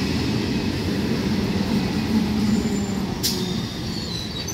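Eastern Railway EMU local train passing close by: a steady rumble and clatter of steel wheels on the rails, with a low hum under it. A single sharp click comes about three seconds in, followed by faint high squeals.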